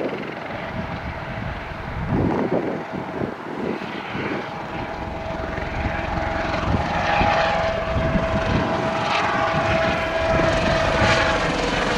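Helicopter's engine and rotor running close by, with a steady whine that comes in about halfway through and grows louder toward the end.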